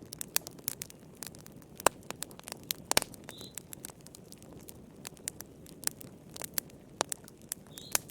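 Wood fire crackling: irregular sharp pops and snaps over a steady low rumble of the flames. A faint short high chirp comes twice, about three and a half seconds in and near the end.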